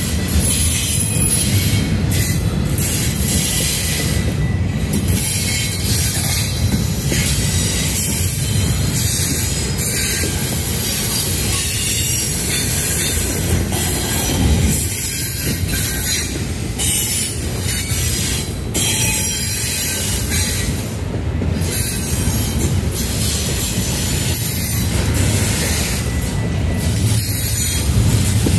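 Canadian National intermodal container train rolling past, a loud steady rumble of its wheels on the rails.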